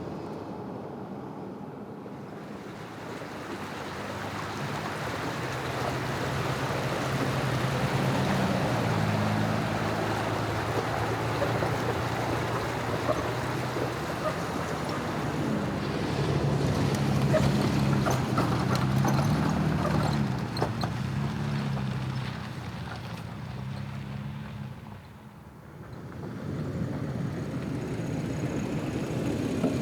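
Steady rushing noise of a vehicle on the move, with low tones that step up and down in pitch through the middle of it and a brief dip in loudness near the end.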